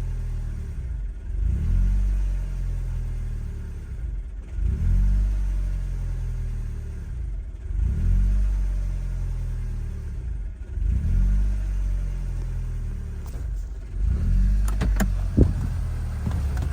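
2011 Audi S3 2.0 TFSI four-cylinder engine running, its speed swelling and falling back about every three seconds, a symptom of a vacuum leak. A few sharp clicks near the end.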